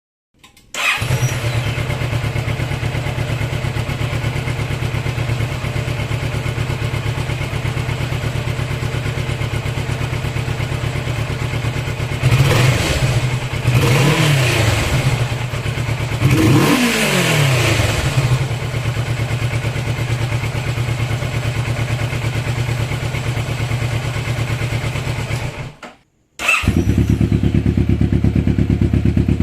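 Kawasaki Vulcan S 650's parallel-twin engine starting up and idling, revved briefly three times about halfway through. Near the end the sound cuts off suddenly and comes back idling with a deeper tone, the bike heard with the other exhaust system.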